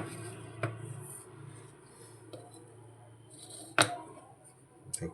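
Scattered clicks and knocks of small objects being handled, probably the opened motorcycle CDI units and their parts. There is a light click under a second in, a sharper knock nearly four seconds in, and a couple more clicks near the end.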